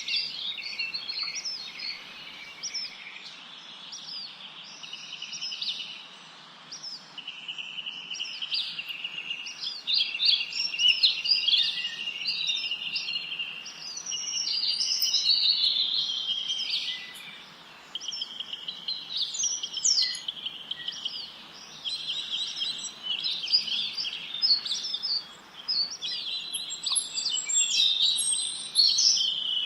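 A chorus of several small songbirds singing at once, with overlapping chirps and rapid trills, over a faint steady background hiss.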